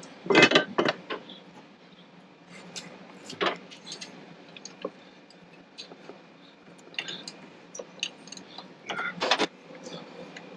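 Metal hand tools clinking and rattling against engine parts in irregular bursts, with a loud clatter at the start and another near the end.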